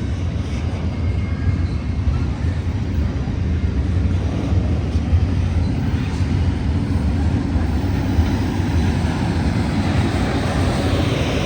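Union Pacific intermodal freight train rolling past, a steady low rumble of its cars on the rails, with higher-pitched rail noise building over the last few seconds.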